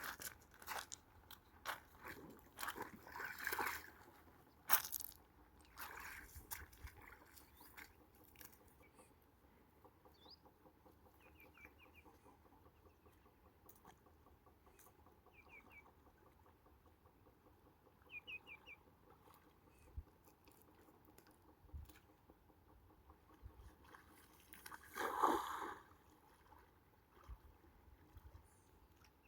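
Quiet, intermittent crunching and rustling, thickest in the first several seconds, with a few short bird chirps in the middle and one louder rustling burst near the end.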